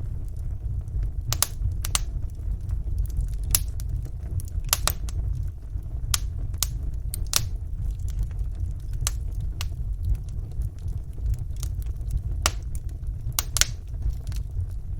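Wood fire burning in a fireplace: a steady low rumble of flames with sharp, irregular crackles and pops, roughly one a second.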